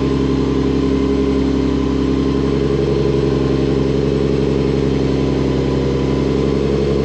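Supercharged Nissan 350Z's 3.5-litre V6 idling steadily.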